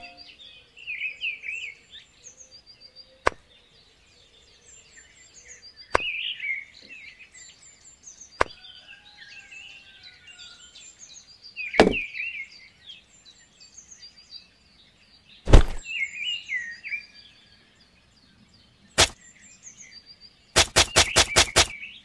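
Small birds chirping, with sharp knocks every few seconds. Near the end comes a fast even run of taps, about five a second.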